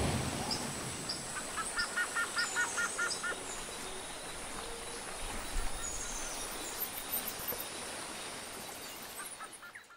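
Forest ambience with birds calling over a steady hiss of background noise. A quick run of about eight short, sharp calls comes between one and three seconds in, with scattered high chirps around it, and the ambience fades out near the end.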